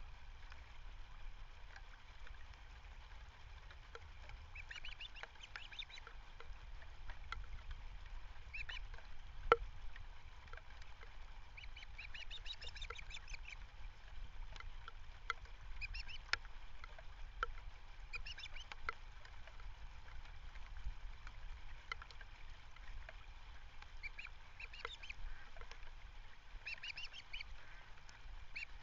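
Birds calling in short bursts of quick, high repeated notes, a burst every few seconds, over a steady low rumble. There is a single sharp click about ten seconds in.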